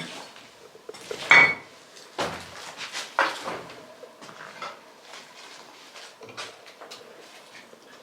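Hard objects clattering and clinking: several loud sharp knocks in the first half, then lighter scattered clicks.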